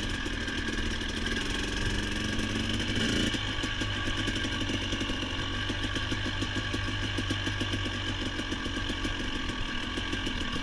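Motorcycle engine running steadily at low revs, its tone shifting slightly about three seconds in.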